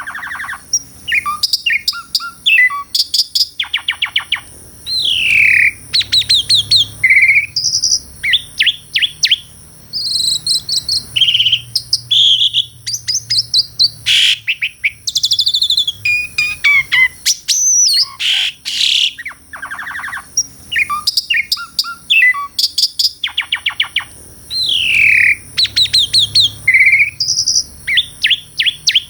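Asian pied starling (jalak suren) singing a varied song of whistles, sliding notes and rapid clicking rattles, with short pauses between phrases. A steady high insect whine runs behind it.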